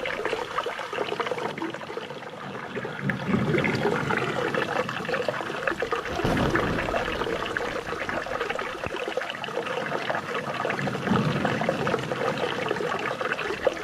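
Running water flowing and trickling steadily, a continuous splashing gurgle.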